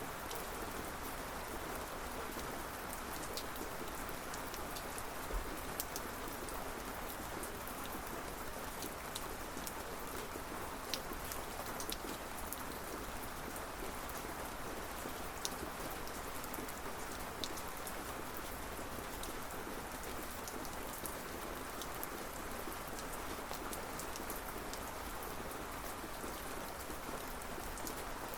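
Steady rain falling, an even hiss of rainfall with scattered individual drops ticking sharply on a surface.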